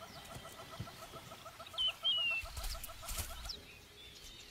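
Wild birds calling: a short whistled call that jumps up sharply and then falls away, heard twice, over a fast, even pulsing call that stops about three and a half seconds in.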